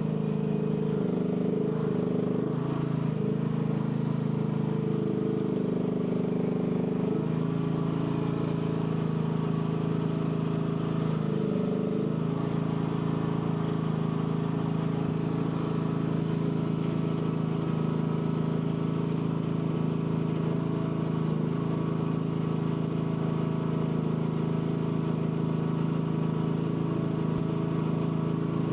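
AGT L12 mini excavator engine running steadily, its pitch wavering and sagging under hydraulic load in the first seven seconds and dipping once more about twelve seconds in.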